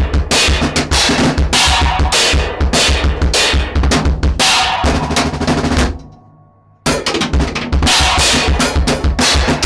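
Drum kit played, raw and unmixed: a busy pattern of kick drum, snare hits and cymbals. About six seconds in the playing stops and rings out, then a new drum passage starts abruptly less than a second later.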